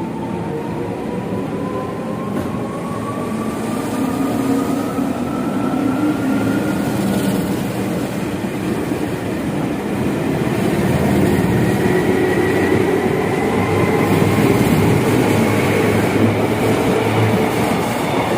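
KRL electric commuter train pulling away from the platform and gathering speed. Its traction motors give a whine that rises steadily in pitch over the rolling noise of the wheels on the rails.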